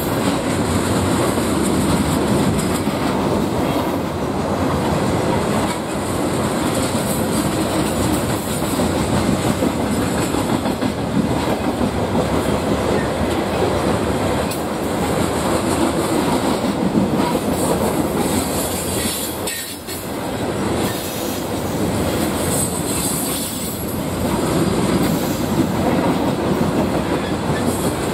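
A freight train's cars rolling steadily past, steel wheels running on the rails, dipping briefly in loudness about twenty seconds in.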